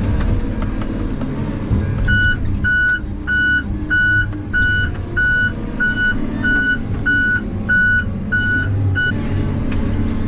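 Heavy logging machine's diesel engine running, with a backup alarm beeping about twice a second from about two seconds in until it stops about nine seconds in.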